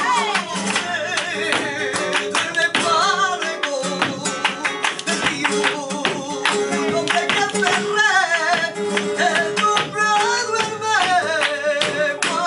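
Live flamenco soleá por bulerías: a singer's wavering, ornamented vocal line over flamenco guitar, with many sharp percussive strikes running through it.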